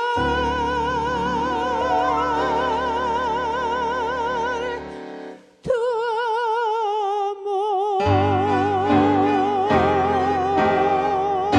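Tango for female voice, bandoneon and piano: the singer holds a long note with wide vibrato, breaks off briefly about five seconds in, then holds another long note, with accompanying chords coming in underneath about eight seconds in.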